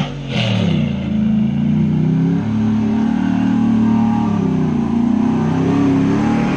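Truck engine revving hard, its pitch rising and falling again and again as the truck is driven.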